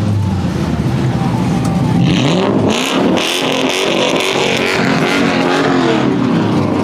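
Car engines revving hard, the pitch climbing about two seconds in and then rising and falling, with a loud hiss joining in from about two to five seconds.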